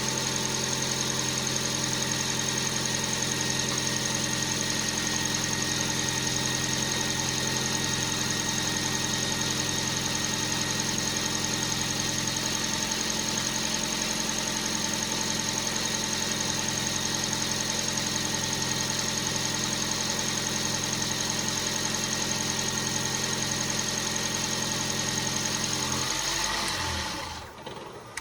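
Toyota Aqua NHP10's 1.5-litre four-cylinder petrol engine idling steadily, then shutting off abruptly near the end.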